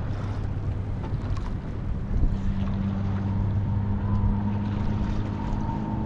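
Strong wind buffeting the microphone out on open water, a steady low rumble, with a faint steady hum underneath.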